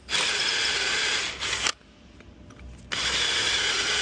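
Electric hand drill with a 6 mm bit drilling out a broken steel bolt: two runs of drilling, the first stopping about 1.7 seconds in and the second starting about a second later.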